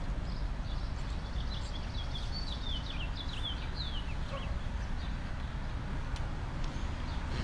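A songbird singing a quick string of short, falling chirps for about four seconds, over a steady low rumble of wind on the microphone.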